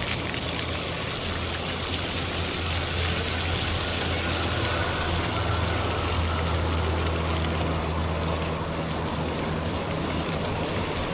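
A low, steady engine hum, strongest in the middle stretch, over a constant rushing noise.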